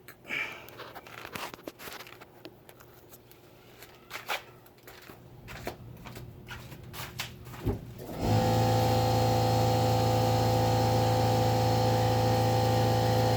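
A few faint clicks and knocks, then about eight seconds in the 2007 Honda Accord's V6 fires and settles into a steady idle through a cat-delete J-pipe and a 2.5-inch Magnaflow catback exhaust.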